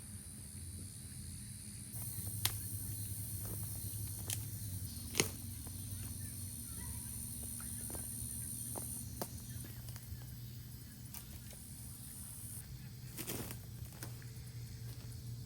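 Quiet outdoor campsite ambience: a steady high hiss over a low hum, with a few scattered sharp clicks and snaps.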